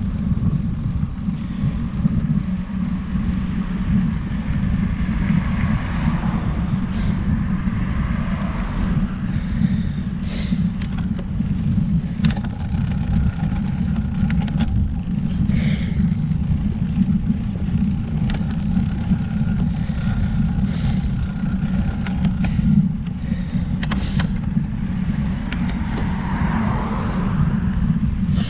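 Steady low rumble of wind buffeting the camera microphone while riding a road bike, with a few light clicks scattered through.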